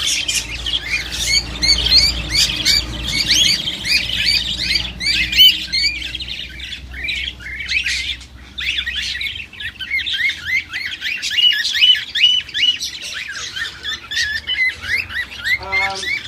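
A crowd of caged parrots chirping and squawking all at once: a dense, continuous chatter of many short high calls.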